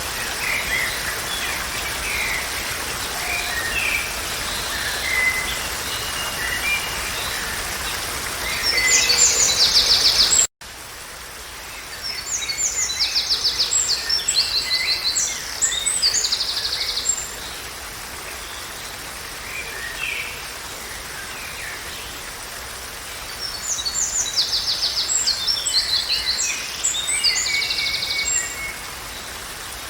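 Songbirds singing over a steady background hiss, with short bursts of fast trilled song that repeat every few seconds. About ten seconds in the sound cuts out abruptly and resumes with a quieter background and the same kind of trilled birdsong.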